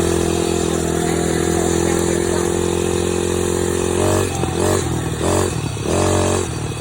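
Dirt bike engine running at a steady speed, then revved briefly four times in quick succession about four seconds in.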